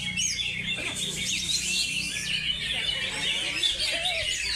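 Many contest songbirds singing at once: a dense, continuous chorus of overlapping chirps, whistles and trills.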